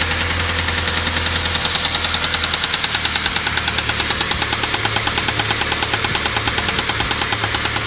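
ZMZ-405 four-cylinder petrol engine running steadily with a rapid, even knock, about ten a second. The knock is present with a new Euro-3 timing drive and new INA hydraulic lifters fitted.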